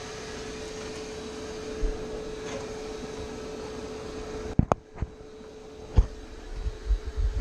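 Bee vacuum running steadily with an even hum while sucking up honeybees. About two-thirds of the way in its rush drops away sharply, and a few sharp knocks and low thumps follow.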